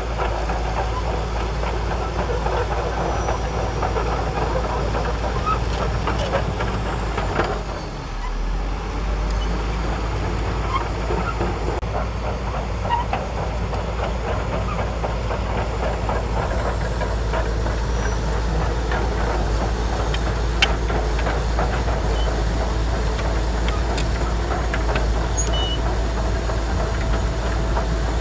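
Shantui DH17C2 crawler bulldozer working: its diesel engine running steadily under a dense, continuous rattle of the steel tracks, easing off briefly about eight seconds in.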